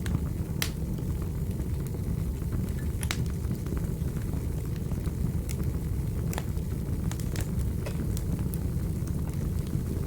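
Wood fire burning in a fireplace: a steady low rumble with sharp crackles and pops at irregular moments, the loudest pop under a second in and another about three seconds in.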